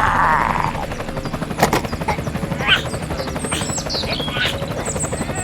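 A small motor of a toy-scale vehicle running with a fast, even rattling beat, with a few short high squeaky glides over it in the middle.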